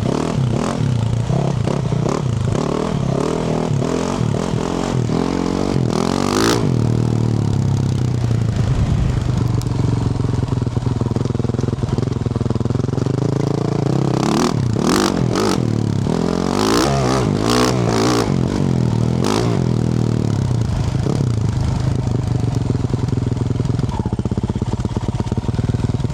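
Yamaha YZ450F's single-cylinder four-stroke engine through a Yoshimura RS-12 exhaust, running under load while riding, its revs rising and falling. Several short noisy clattering bursts come through in the middle.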